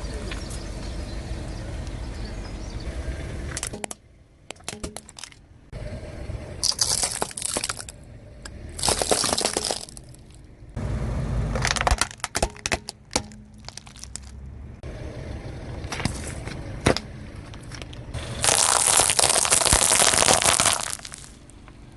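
Objects being crushed under a car tyre: repeated crackling and crunching in separate bouts, with a low rumble from the car. The longest and loudest crunching comes near the end.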